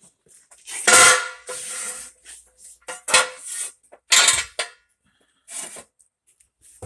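Steel jack stands clanking as they are set under the car: three loud metallic clanks, the first ringing on for about a second, then smaller knocks.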